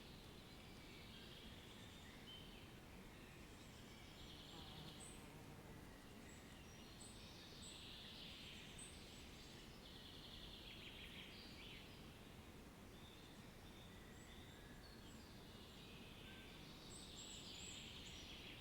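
Faint birds chirping and trilling in scattered phrases over a low, steady background noise.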